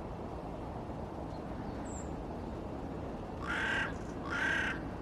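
A crow cawing twice, two harsh calls about a second apart starting about three and a half seconds in, over steady low background noise. A faint, brief high chirp from a small bird comes about two seconds in.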